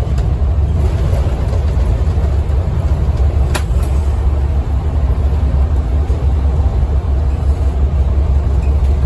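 Scania N230UD OmniCity double-decker bus under way, heard from inside the cabin: the five-cylinder diesel engine's steady low drone mixed with road noise. A single sharp click comes about three and a half seconds in.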